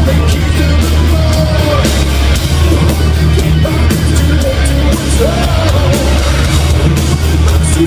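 Heavy metal band playing live: loud distorted guitars, bass and drums, with a heavy booming low end.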